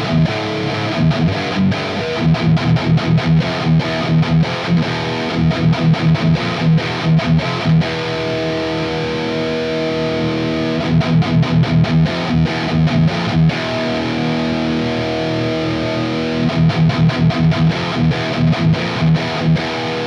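Distorted electric guitar through a 5150-style high-gain amp, boosted by an Earthquaker Devices Plumes overdrive in its clean-drive mode with the gain turned up, close-miked at a Mesa V30 speaker. Fast, tight chugging riffs, with held ringing chords in the middle.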